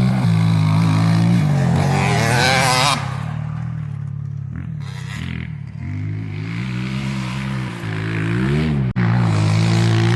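Motocross bike engine revving hard while riding. The throttle comes off about three seconds in, the revs rise and fall again, and there is a brief cut near the end before it pulls loud once more.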